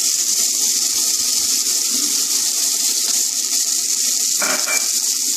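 Onion, beans, tomato and freshly added grated carrot sizzling in hot oil in a frying pan, a steady hiss, with a short sharper sound about four and a half seconds in.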